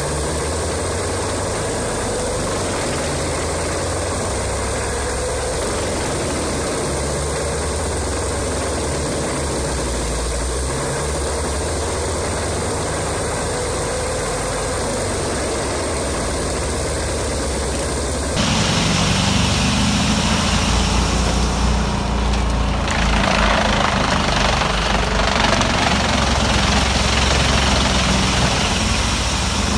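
Diesel engine of a large wood chipper running steadily. About two-thirds of the way in it switches abruptly to a louder engine sound, and a few seconds later a loud rushing hiss joins it and carries on.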